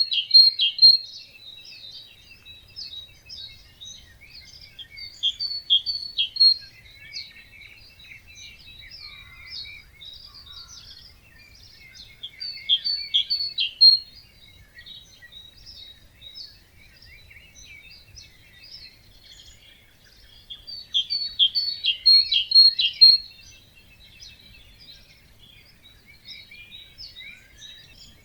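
Several birds singing in a dawn chorus. One nearby bird repeats a short, loud, rapid song phrase about every eight seconds, with fainter songs and calls of other birds in between.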